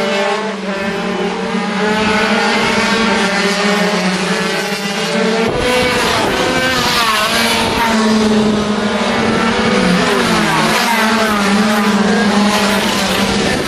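Small 50cc two-stroke racing motorcycle engines running at high revs. From about halfway through, more bikes join in, their pitches rising and falling as they shift and pass.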